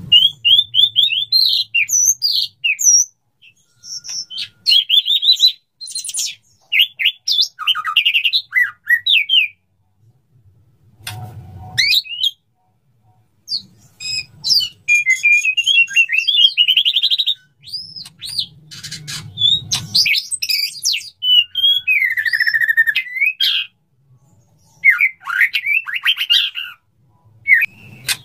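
Male white-rumped shama singing a varied song of fast whistles, chirps and trills in bursts with short pauses: its courtship song to a female. A few low thuds come in between the phrases.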